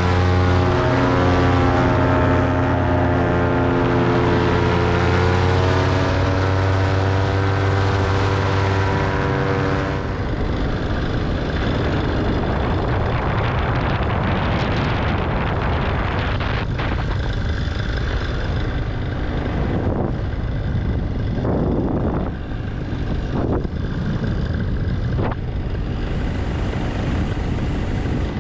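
Paramotor engine and propeller running steadily at high power, then throttled back about ten seconds in. After that, wind rushing over the microphone dominates, with a few sharper gusts.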